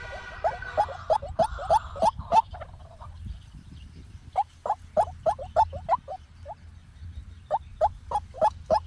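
White-breasted waterhen calling: runs of short, hoarse notes repeated several times a second, in three bursts with short pauses between them.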